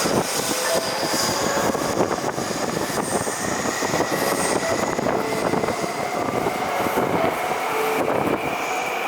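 Taipei MRT C321 electric multiple unit train pulling into the station: steady rumble of wheels and running gear, with a faint high whine that rises slightly near the end.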